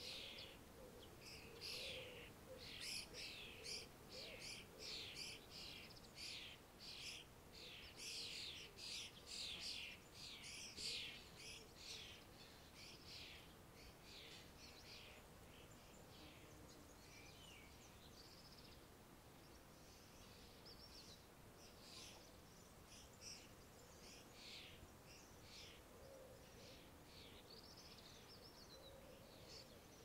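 Small songbirds chirping and singing in quick, high notes, softly, busiest in the first half and thinning out later.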